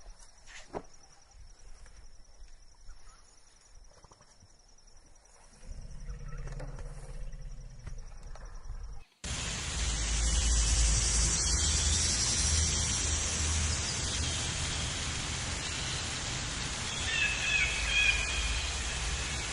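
Outdoor animal recording: a quiet stretch with a thin high steady tone, then a cut to louder steady outdoor noise with a few short bird chirps near the end.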